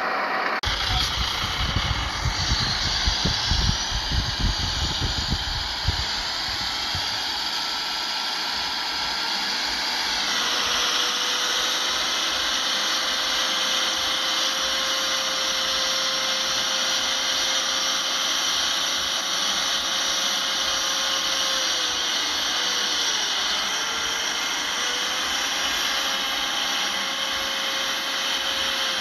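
Heavy earthmoving machine's diesel engine running with a high whine, its pitch shifting about ten seconds in and again a little past twenty seconds. Heavy low rumbling through the first six seconds.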